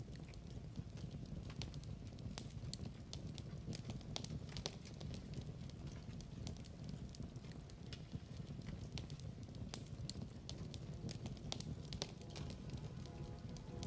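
Log fire crackling in a fireplace: irregular sharp pops and snaps over a steady low rumble of burning.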